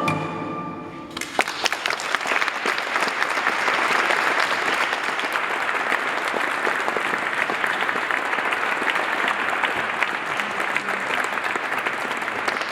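Audience applauding at the close of an oud piece, starting about a second in after the last notes die away and going on steadily.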